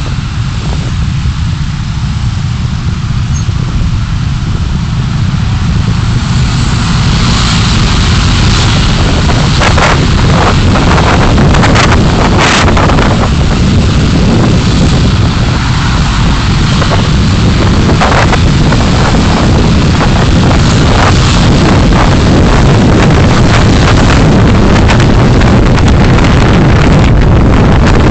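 Road and wind noise in a moving car, picked up by its dashcam: a dense, steady low rumble that grows louder over the first ten seconds or so, with a few brief knocks partway through.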